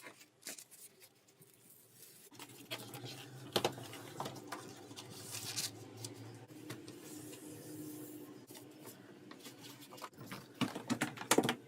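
Clicks, knocks and rustling of plastic parts being handled and fitted while a portable air conditioner is set up. A steady low hum comes in about two seconds in.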